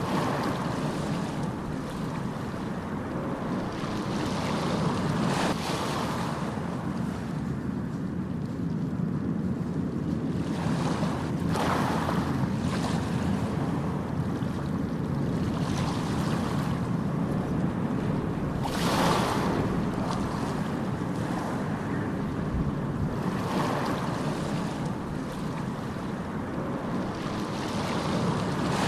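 Ocean surf: a steady rumble of waves, with a wave washing in every few seconds. The biggest wash comes about two-thirds of the way through.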